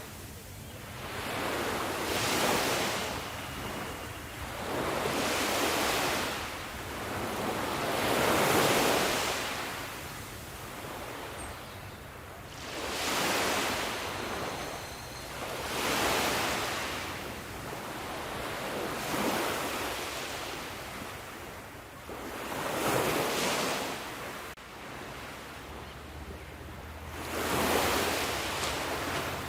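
Ocean waves breaking on a shore: surf swelling and washing back in repeated waves every few seconds.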